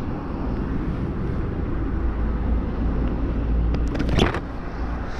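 Street traffic: a steady low rumble of passing vehicles, with a brief sharp sound about four seconds in.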